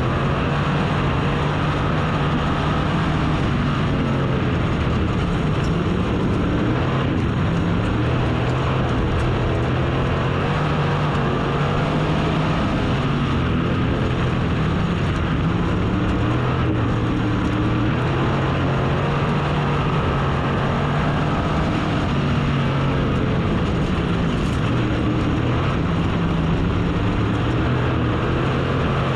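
Race car engine at racing speed, its pitch rising and falling every few seconds as it accelerates and backs off, over tyre and wind noise. The engine has just had an in-frame overhaul with two pistons and eight valves replaced, and it is running well.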